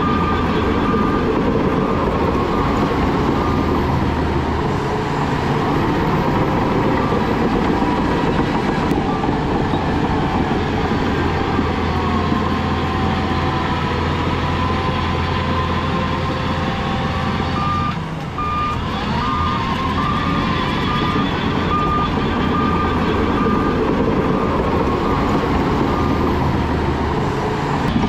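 Heavy earthmoving machinery at work: a loud, steady diesel engine, with a reversing alarm beeping over it for the first few seconds and again through the last third.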